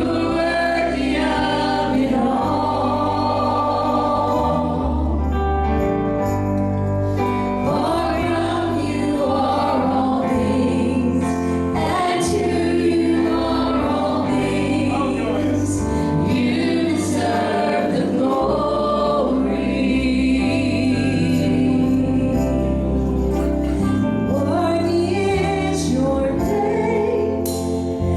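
Gospel music: a choir singing over instrumental accompaniment with a steady bass line.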